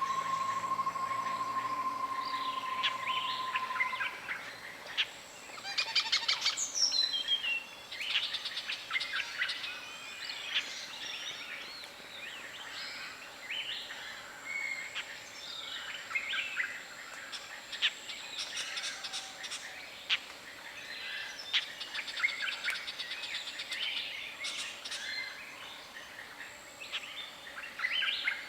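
Several wild birds calling: quick chirps and rapid trills, with a steady whistled tone that stops about four seconds in.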